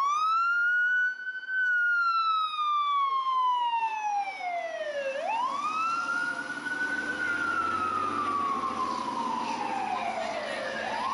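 Fire apparatus siren on a slow wail, each cycle climbing quickly and then falling slowly over about five seconds, about twice. From about halfway a low engine rumble and a fainter second siren join in.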